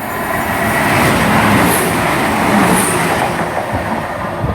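Two coupled Class 168 diesel multiple units passing through the station at speed: a loud rush of wheels and diesel engines that builds over the first second and stays high.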